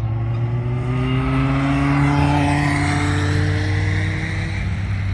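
High-performance car engines running hard as they pass along a race circuit. The engine note holds a steady, slowly shifting pitch and is loudest about two seconds in.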